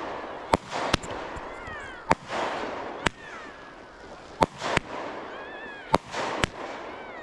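Fireworks going off: about eight sharp bangs in irregular succession, each trailing off in a fading hiss.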